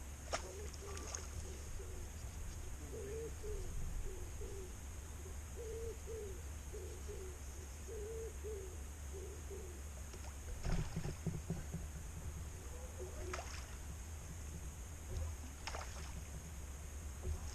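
Open-air ambience with a steady low wind rumble. A bird calls a run of short, low, evenly repeated notes in the first half, and a few sharp clicks and a soft knock stand out.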